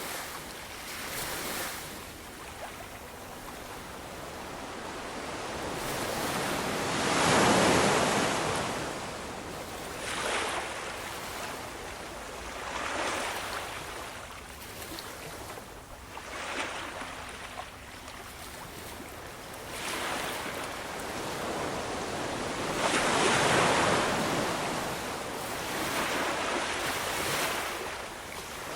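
Ocean waves breaking and washing on the shore, a steady rushing that swells and ebbs every few seconds, with two bigger waves crashing, one about a quarter of the way in and one near the end.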